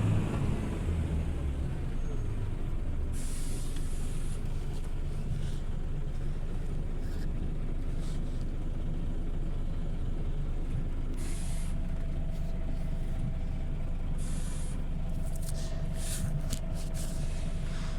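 Scania OmniLink city bus's diesel engine idling with a steady low drone, while short hisses of compressed air from the bus's air brake system come several times.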